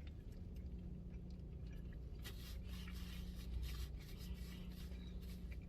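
Soft rustling and scratchy handling sounds of a fast-food burger being handled and bitten into, clearest between about two and five seconds in, over a steady low hum.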